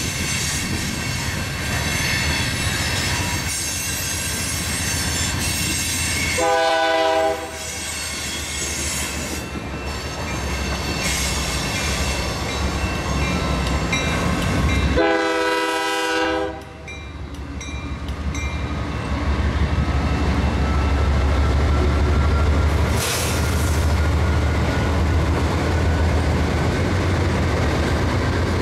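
A CN diesel freight locomotive's air horn sounds two blasts, the first about six and a half seconds in and a longer one about fifteen seconds in, over the steady rumble of the approaching train, with high wheel squeal early on. From about twenty seconds in the low rumble of the locomotive engines grows louder as they pass close by.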